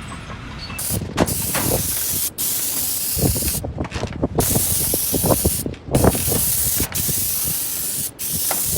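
A high-pressure spray hissing steadily, cutting out briefly several times, with scattered low knocks beneath it.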